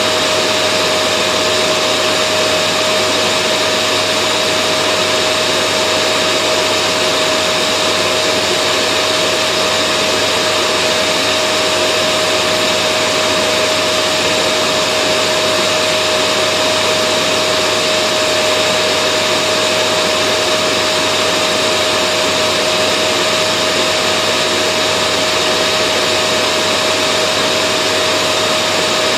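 Vacuum cleaner running steadily: an even rush of air with a constant motor whine, never changing in pitch or level.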